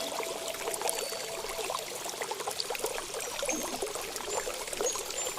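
Running water trickling and babbling, like a small stream. A faint held tone fades out in the first two seconds, and a few short high bird notes sound in the second half.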